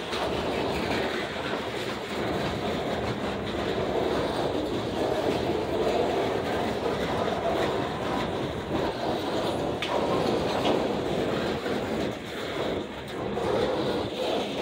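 Freight train of centerbeam flatcars loaded with lumber rolling past, steel wheels running on the rails.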